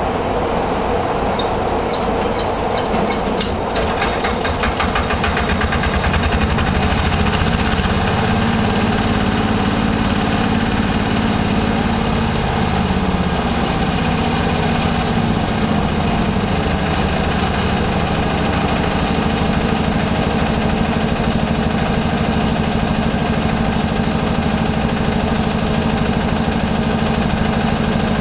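Kubota 850cc tiller engine running steadily at idle, with a rapid ticking in the first few seconds. It gets a little louder about six seconds in, and its speed shifts slightly about twelve seconds in.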